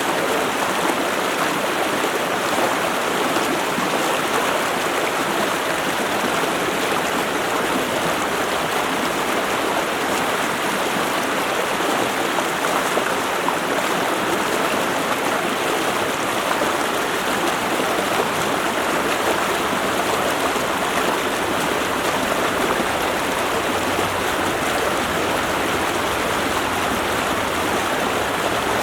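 Creek water rushing over rocks: a steady, unbroken rush.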